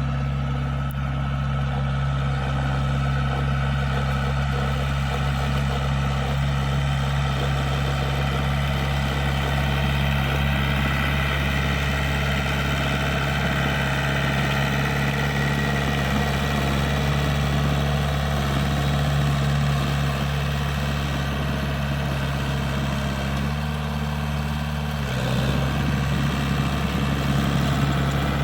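Komatsu small bulldozer's 4D92 four-cylinder diesel engine running steadily, its note shifting briefly about three-quarters of the way through.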